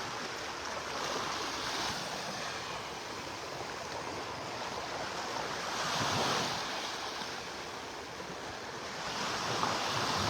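Gulf of Mexico surf: small waves washing onto the beach in a steady hiss, swelling as a wave breaks about six seconds in and again near the end.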